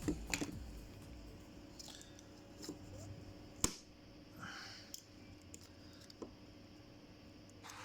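Quiet handling noises of small parts being worked on: a few light clicks and taps, with one sharper click about three and a half seconds in and a brief soft rustle just after.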